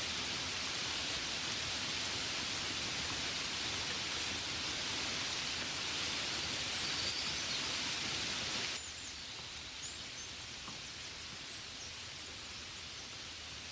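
Steady rain hiss that cuts off abruptly about nine seconds in, leaving a quieter background hiss with a few faint ticks and high chirps.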